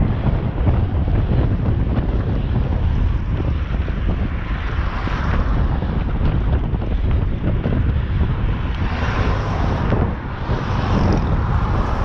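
Strong wind buffeting the microphone: a steady low rumble, with swells of higher rushing noise a few times.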